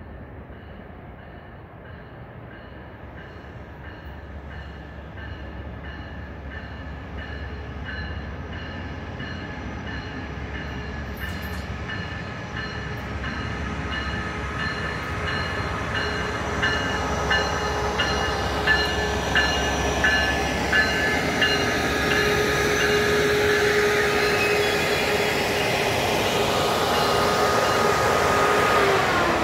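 MARC commuter train approaching and growing steadily louder, with an even, rhythmic clicking from the rails. A steady tone bends down in pitch near the end as the train draws level.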